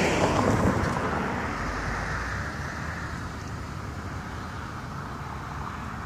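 A car passing by on the road, its tyre and engine noise fading away over the first couple of seconds, leaving a steady background of traffic noise.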